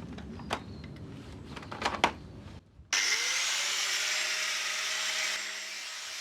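A few knocks and clicks of handling, then about three seconds in a power cutting tool starts up, its pitch rising briefly as it spins up, and runs steadily for cutting rusty steel out of a car's rear wheel arch.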